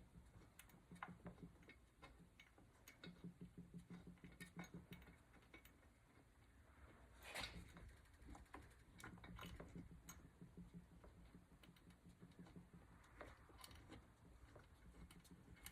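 Near silence, with faint scattered ticks and light clicks and one slightly louder click about seven seconds in.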